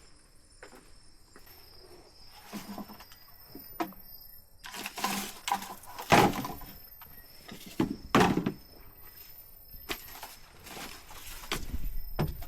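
Irregular knocks, thuds and rustling, with louder sudden hits about six and eight seconds in, over a steady high chirping of insects.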